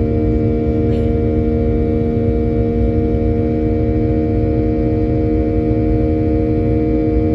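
Cabin noise of a Boeing 737-800 in flight: a steady low rumble of airflow with the CFM56-7B engines' droning tones held at a constant pitch.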